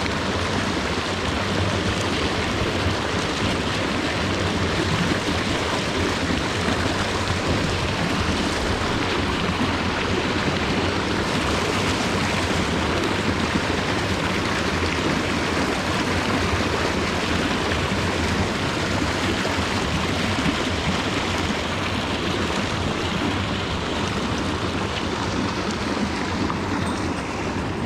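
Mountain stream water rushing steadily over rocks, an even continuous noise.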